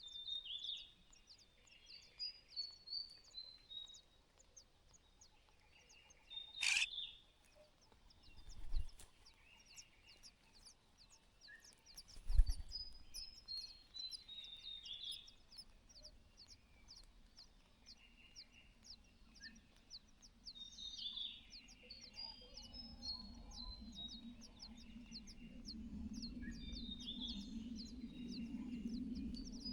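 Wild birds chirping: repeated short, high, falling notes over a fast, high ticking. There is a sharp click about seven seconds in, dull low thumps near nine and twelve seconds, and a low rumble that grows louder toward the end.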